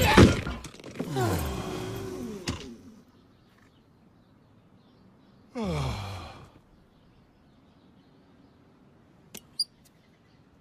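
Cartoon car sound effects: a sharp hit, then falling-pitch whines as something winds down, a second short falling whine about halfway through, and two quick clicks near the end.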